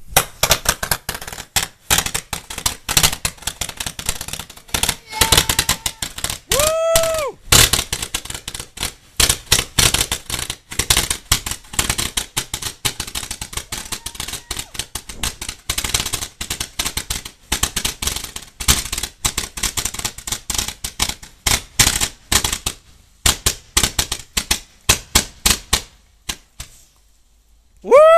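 468-shot roman candle firework firing a rapid, uneven stream of sharp pops, which stops about 26 seconds in.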